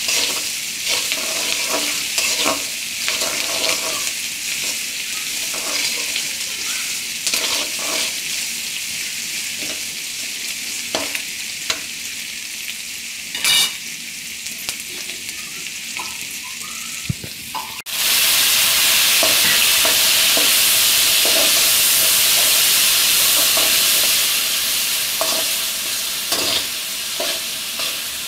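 Sliced onions sizzling in hot oil in a metal kadai, with the scrape and clink of a metal spoon stirring them. About two-thirds of the way through, the sizzle suddenly grows much louder for several seconds as chopped tomatoes go into the hot oil, then settles back to frying and stirring.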